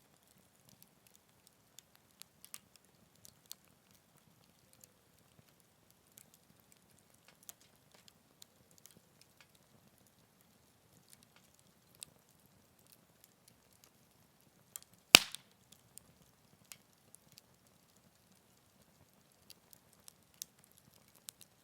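Wood fire crackling, with scattered small snaps and one loud pop about two-thirds of the way through.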